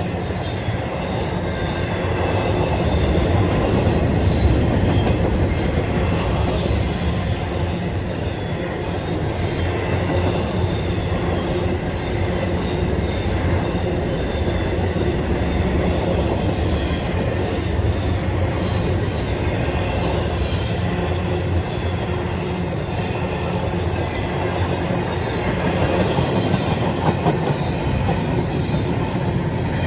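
Intermodal freight train cars rolling past steadily: a continuous rumble of steel wheels on rail with a clickety-clack over the rail joints.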